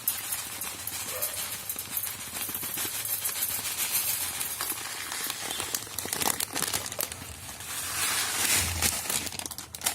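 Dry vermicelli (sevayi) rustling and clicking against the pot of an electric kettle as it is poured in and stirred: a crinkly rustle with many small clicks, louder near the end.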